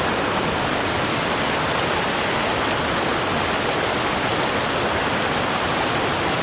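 Mountain stream rushing and splashing down over rocks, a steady, even rush of water. One brief high click sounds about two and a half seconds in.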